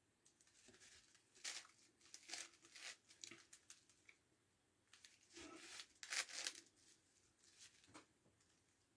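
Faint plastic scraping and clicking of a 9x9x9 Rubik's Cube's layers being turned, in short irregular bursts with pauses between, while the last edges are paired.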